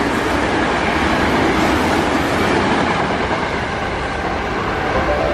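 Sanyo Electric Railway electric train running past at speed: a loud, steady rush of rail and running noise that eases slightly toward the end as the train moves away.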